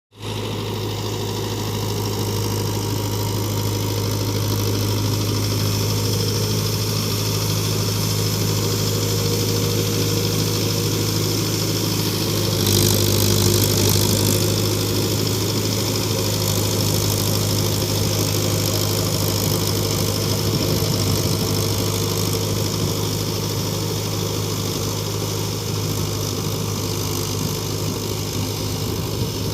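Mahindra 45 hp tractor's diesel engine running steadily while working a rotavator, with a low steady hum. It grows louder and brighter for a second or two about 13 seconds in.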